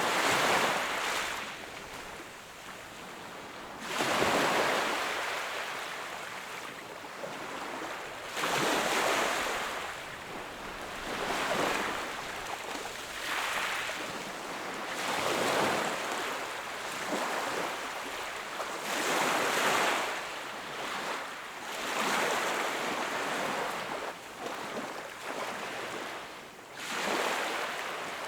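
Sea waves breaking and washing onto the shore in a regular rhythm, one wash swelling and fading about every four seconds.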